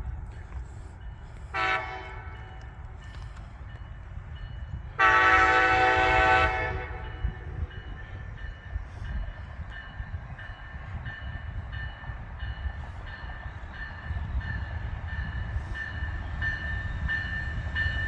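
Amtrak passenger train's horn: a short blast, then a longer blast about five seconds in. After it a bell rings steadily, about one and a half strokes a second, over the low rumble of the approaching train.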